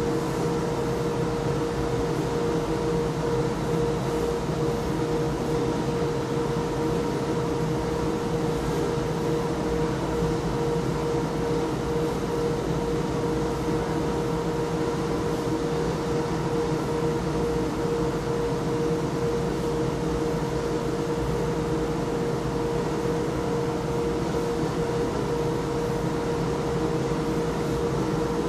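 Industrial machinery running continuously: a steady mechanical drone with a constant pitched hum held on one note and a fainter higher whine, without let-up.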